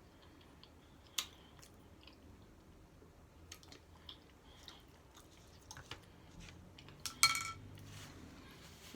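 Close-miked chewing of a taco, with scattered short crunchy clicks; the loudest is a brief burst of clicks about seven seconds in.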